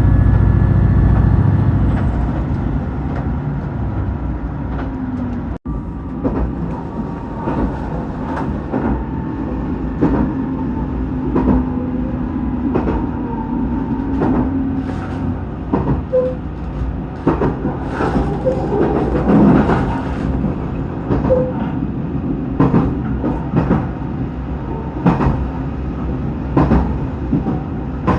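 JR Shikoku 2000 series diesel tilting train running. The engine is loud at first and eases off over the first few seconds, then the wheels click and knock over rail joints at irregular intervals through a steady rumble.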